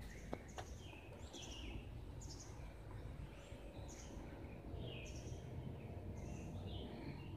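A bird calling over and over in short chirps, about one a second, often a higher note followed by a lower one, over a faint low rumble of background noise. A couple of sharp clicks come near the start.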